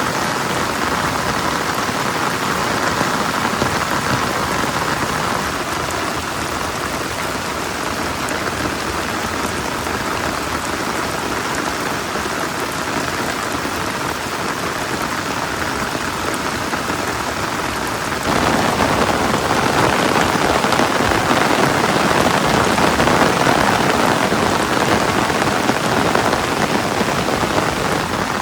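Steady rain falling, with no other clear sound above it. About two-thirds of the way through it turns suddenly louder and stays that way.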